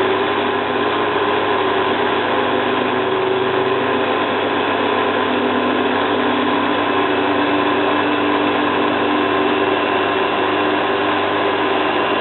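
Zanussi FLA1002W washing machine spinning its drum at speed in an interim spin with a duvet load, a loud steady whine of motor and drum.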